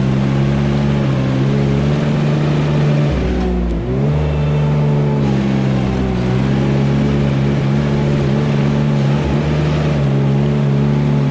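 Tractor engine running steadily; its pitch dips briefly about four seconds in, then recovers.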